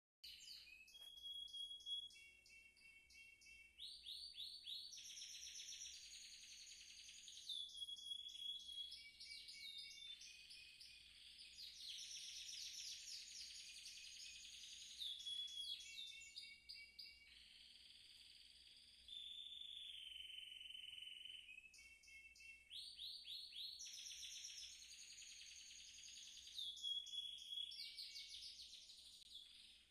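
Belgian canary singing a long continuous song of rapid trills and rolls, broken by held whistled notes and short repeated phrases.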